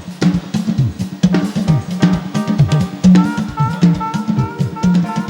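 Church praise band's drum kit playing a busy, driving rhythm on bass drum and snare, with low drum hits that slide down in pitch. A held note joins about three seconds in.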